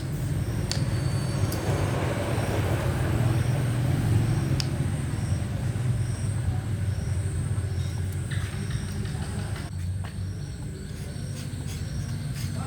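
A steady low mechanical rumble, like a motor or engine running.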